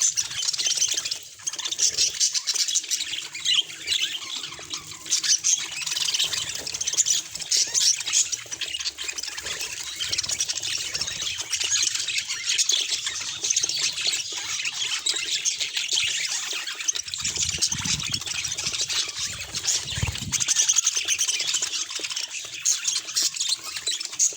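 Budgerigars chattering and warbling in a steady stream of quick, high chirps and squawks.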